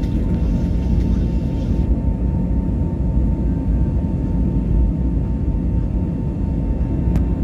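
Airliner taking off: a steady low rumble from the engines and rushing air, with a constant hum above it. A brief click comes near the end.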